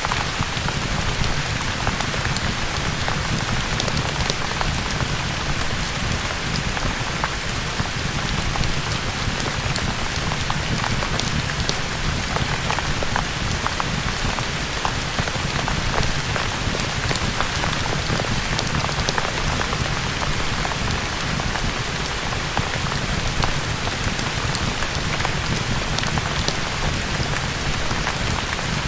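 Steady heavy rain with scattered sharp crackles from a fireplace fire mixed in, an even ambience that does not change.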